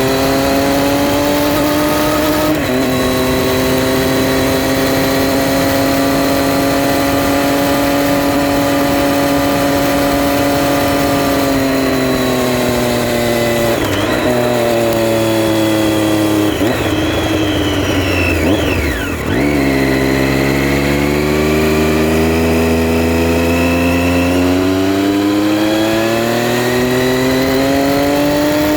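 Triumph Street Triple R's 675 cc three-cylinder engine under way: an upshift about two and a half seconds in, then steady revs in gear. Past the middle the revs fall with short blips as it changes down and slows, then climb steadily as the bike accelerates again.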